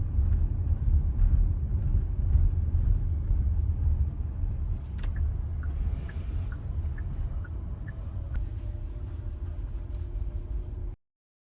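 Low, steady rumble of a moving car, with a few faint clicks and short high chirps around the middle. It cuts off suddenly near the end.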